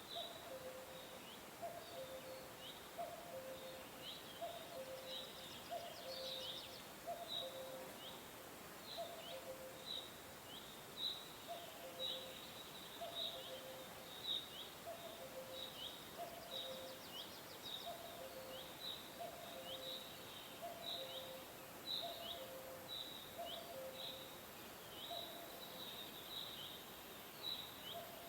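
Birds chirping: a steady run of short, high, falling chirps, two or three a second, over a lower two-note call that repeats about once a second.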